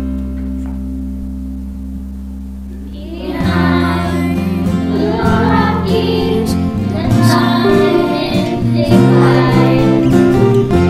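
Instrumental accompaniment holding a sustained chord that fades slowly, then about three and a half seconds in a children's school choir comes in singing over it.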